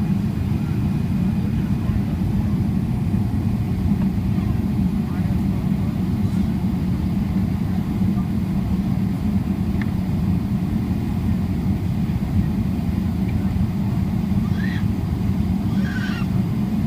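Steady low rumble of a Boeing 777-300ER's engines and airflow, heard inside the passenger cabin, with faint voices near the end.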